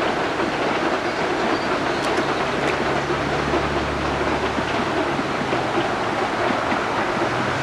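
Durango & Silverton narrow-gauge passenger cars rumbling and clattering steadily across a steel truss bridge.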